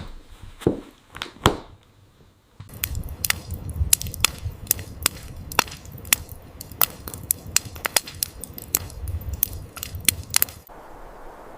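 Wood fire crackling: a dense run of irregular sharp pops and snaps over a low rumble, starting and stopping abruptly, with a few separate clicks before it.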